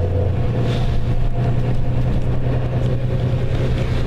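Bus engine running under way, heard from inside the bus as a steady low drone whose note steps up about half a second in as it pulls harder.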